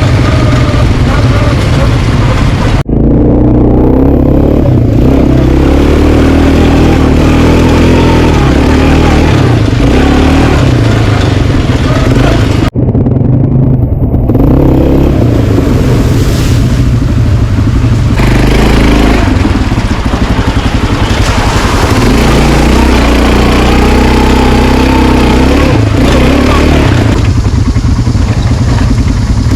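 Quad bike engine running under way, its pitch rising and falling as the throttle is opened and eased off. The sound cuts out for an instant twice.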